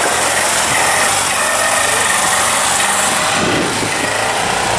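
Motorcycle engine running steadily under a loud, even hiss.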